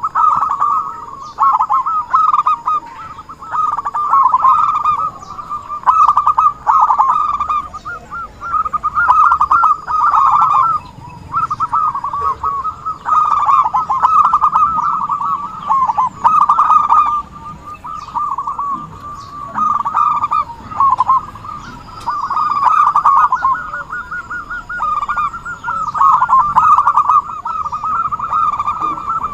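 Zebra doves (perkutut) cooing over and over, each phrase a quick run of short notes, the phrases following one another with only brief gaps.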